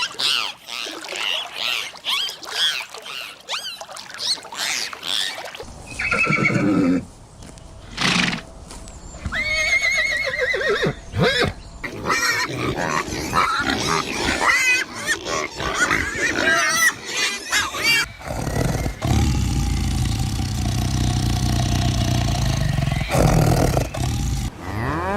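Calls of several different farm animals in succession, changing every few seconds: high chirping at first, then a few pitched, wavering calls, and a long low steady sound near the end.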